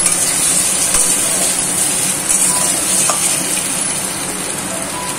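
Paneer cubes sizzling steadily as they fry lightly in hot oil in a kadai, turned now and then with a metal spatula.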